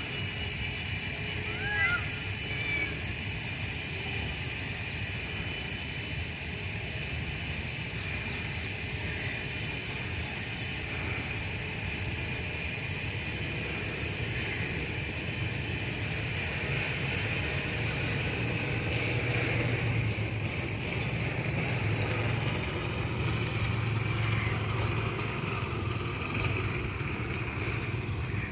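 Steady outdoor background noise with a low rumble that grows louder in the second half and a steady high drone, with a few short bird chirps about two seconds in.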